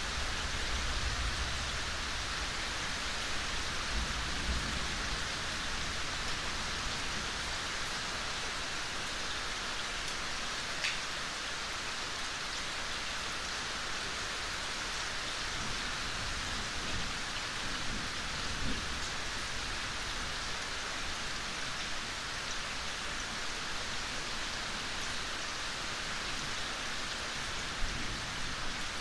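Steady soft rain falling in a forest, an even hiss of drops with a few single drops ticking through it.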